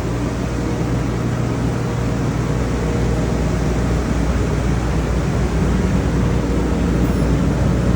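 Steady machine noise: a loud, even rushing hiss over a low rumble, with a faint steady whine.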